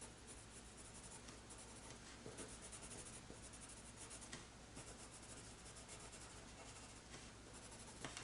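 Faint scratching of a colour pencil on paper, many short quick strokes of shading.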